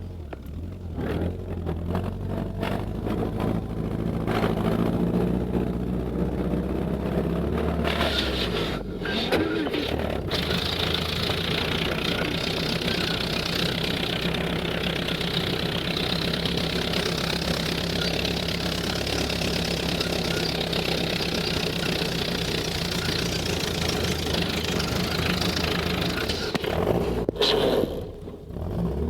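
GAZ-69A's four-cylinder side-valve engine running as the jeep drives along. The engine note changes about eight seconds in, when a steady rushing ride noise builds up over it, and there is a short dip in loudness near the end.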